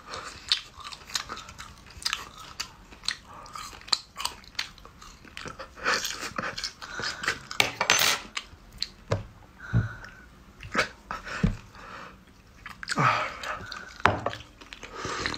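Close-up chewing of a raw garlic clove: irregular crunches and wet mouth clicks and smacks, loudest in a few clusters.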